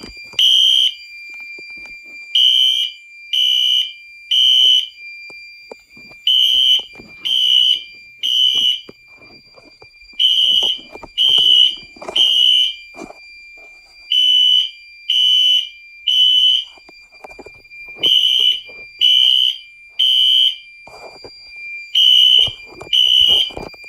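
Fire alarm horn/strobe on a Potter PFC-6006 fire alarm control panel sounding the code 3 (temporal-3) evacuation pattern: three loud, shrill beeps, a pause, then three more, repeating about every four seconds, over a steady high tone.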